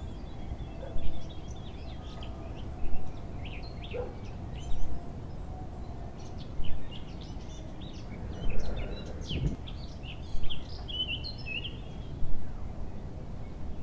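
Birds chirping and singing in short, scattered calls over a steady background noise, with a low swell in loudness recurring about every two seconds.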